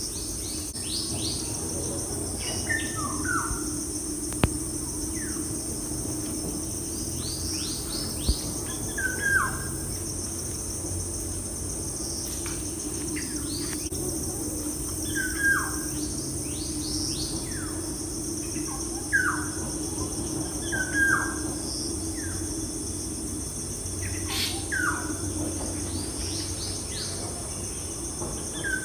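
Birds chirping, short downward-sliding calls every second or two, over a steady background hum.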